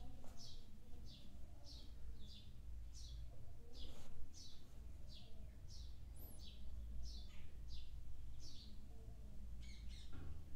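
A small bird chirping over and over, about two short, high, falling chirps a second, with one brief higher whistle about six seconds in, over a low steady hum.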